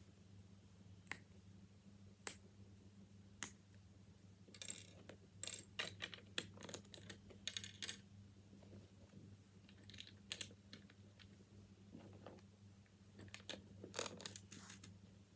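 Plastic Lego bricks clicking and rattling as pieces are handled and pressed together: a few single sharp clicks at first, then quick bursts of clicking and clattering, over a faint steady hum.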